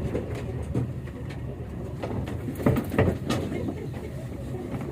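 Birds calling, with a few short, louder calls a little past halfway, over a steady low rumble.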